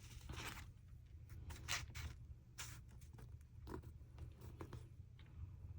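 Paper collage pieces being handled and shifted on a journal page: a string of short, soft paper rustles and light taps over a low steady hum.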